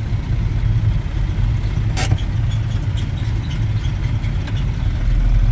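Truck engine idling steadily at a low pitch, with one sharp click about two seconds in.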